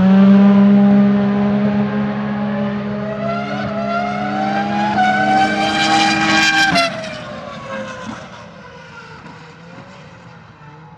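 Renault R25 Formula 1 car's 3.0-litre RS25 V10 running hard, its note climbing steadily for about seven seconds, then dropping away abruptly and fading.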